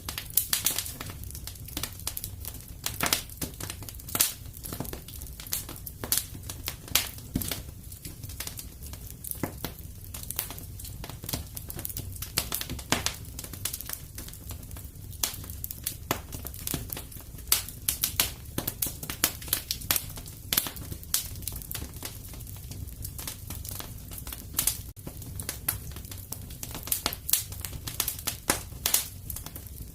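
Fireplace fire crackling, with frequent sharp pops and snaps of varying loudness over a steady low rumble.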